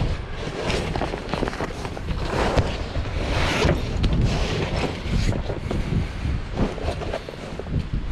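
Wind buffeting the microphone in uneven gusts, a heavy low rumble with rushing noise.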